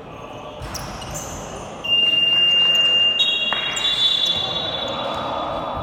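A few basketball bounces, then about two seconds in a loud electronic buzzer sounds on a steady high tone. After a little over a second it steps up to a higher tone that holds for about two and a half seconds.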